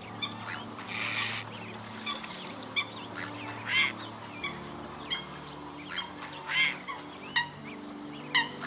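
Waterfowl giving a series of short calls, some louder than others, over soft ambient background music with held chords.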